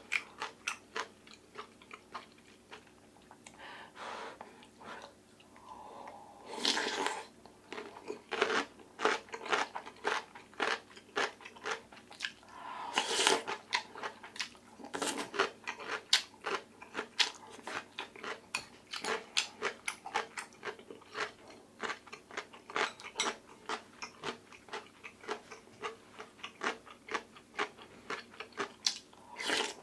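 Close-miked eating sounds from oyster rice soup and chonggak radish kimchi: steady chewing with many quick, crisp crunches, a few each second. Twice there is a longer, louder mouth noise.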